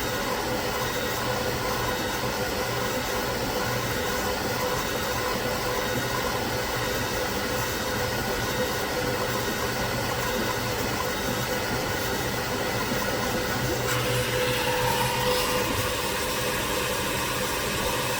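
Steady, loud whirring machine noise with a low hum, changing slightly about fourteen seconds in.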